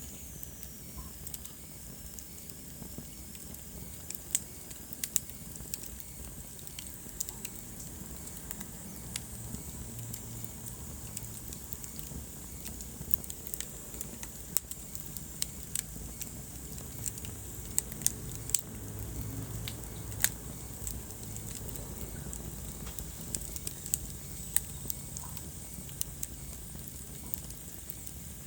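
Wood fire crackling in a fireplace: irregular sharp pops and snaps, now and then several in quick succession, over a steady low rumble.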